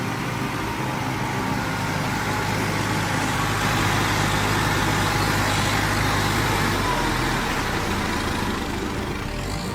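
Tractor diesel engine running steadily, its note shifting about seven seconds in.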